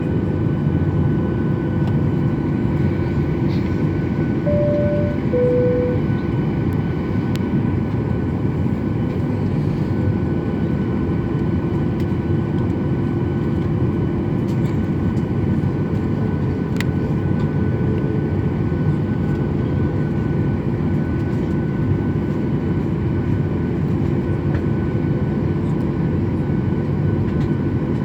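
Airliner cabin noise while taxiing: a steady engine hum and rumble with a faint whine above it. About five seconds in, a two-note cabin chime sounds, high then lower.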